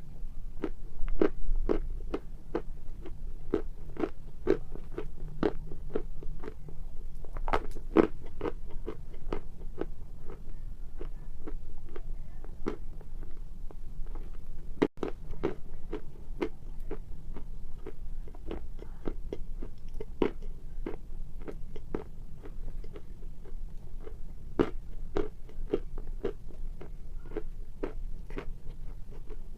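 Close-miked biting and crunching of hard, chalk-like pieces of Grey Pearl: a steady run of sharp crunches, about two a second.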